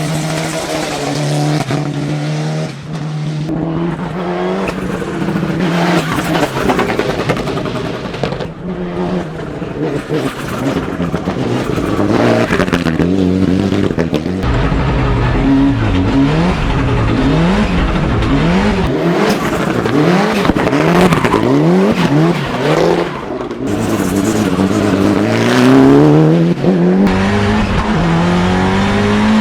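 Mitsubishi Lancer Evo VI prototype hill climb car's engine at race pace. Its note is held fairly steady at first, then rises and falls in quick repeated sweeps through the middle, and climbs in one long rise near the end.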